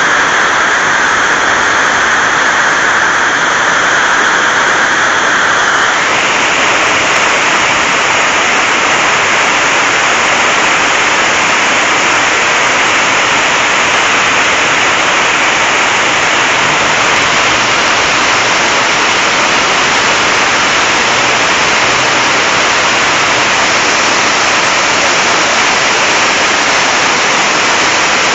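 Very loud, heavy rain drumming on a tin roof, a dense, steady hiss. Its tone shifts slightly about six seconds in.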